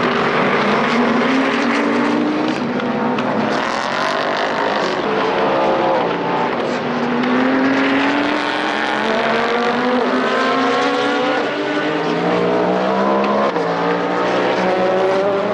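Race car engines at full throttle, their pitch climbing and then dropping back with each upshift, several times over.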